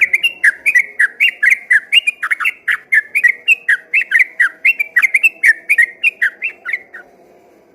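Yellow-vented bulbul (trucukan) singing a fast, continuous 'ropel' song of bubbly whistled notes, several a second, that stops near the end.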